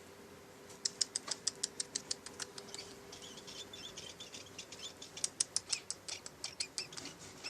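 Pond herons (blekok) calling: rapid series of sharp, high, clicking chirps, about six a second, starting about a second in, with a brief pause near the middle.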